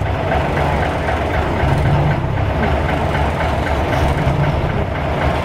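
Engines of antique heavy trucks running at low speed as the trucks crawl along in low gear in a slow race. It is a steady low rumble with a fast regular clatter, swelling slightly every couple of seconds.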